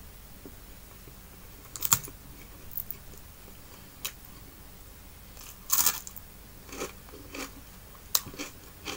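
A person biting and chewing crispy fried fish, with a few short, sharp crunches spread through and the loudest cluster about six seconds in.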